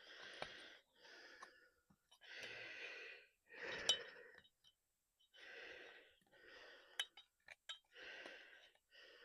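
A person breathing heavily close to the microphone, a breath in or out about every second, with a few light clicks between the breaths.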